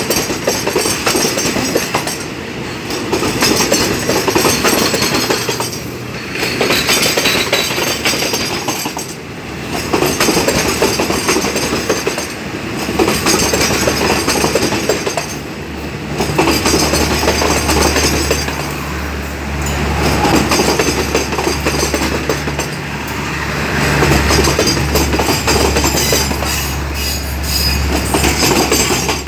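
Passenger coaches of a departing train rolling past at low speed. The steel wheels clack over the rail joints, and the sound swells and fades every few seconds as each coach goes by. A low steady hum comes in about halfway through.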